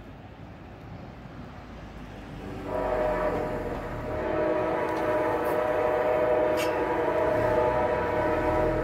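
MARC commuter train's multi-tone air horn sounding over a low rumble: a first blast starting about three seconds in, then a long held blast to the end.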